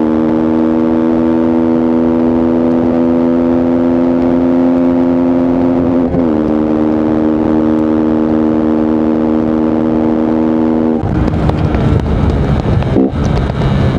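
Voge 125R's single-cylinder 125 cc four-stroke engine running at steady revs while riding, its pitch stepping down slightly about six seconds in. About eleven seconds in the steady tone gives way to a rougher, noisier sound, with a brief drop in level near the end.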